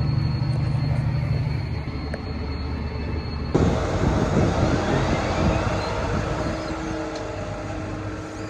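John Deere 7330R tractor's diesel engine running under load with a steady low hum, heard from the cab. About three and a half seconds in, the sound cuts abruptly to a louder, rougher rumble of the tractor working the field with the plough.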